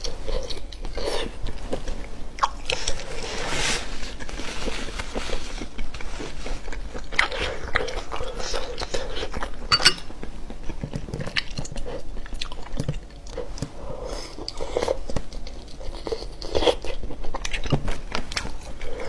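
Close-miked eating: repeated bites and chewing, with crunches and sharp clicks throughout.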